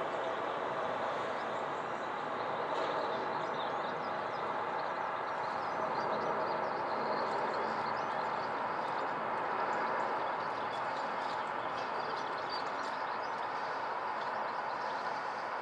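Airbus A330-243 airliner's Rolls-Royce Trent 700 jet engines heard from the ground as a steady rumble on approach, with a faint whine that fades about halfway through. Birds chirp faintly in the second half.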